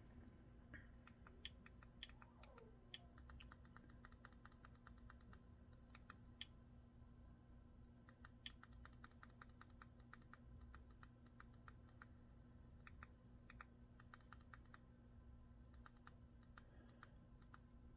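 Faint, irregular clicks, sometimes in quick runs of several a second, over a faint steady low hum: the click sounds of an Amazon Fire TV Stick's menus as its settings are scrolled through.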